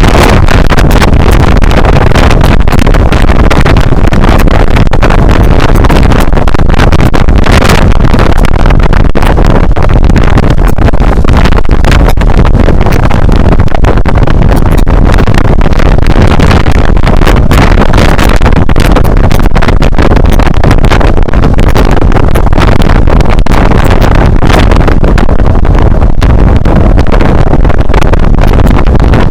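Loud, steady wind buffeting on the built-in microphone of an uncased Xiaomi Yi action camera at riding speed, a heavy low rumble that sits near the top of the recording level.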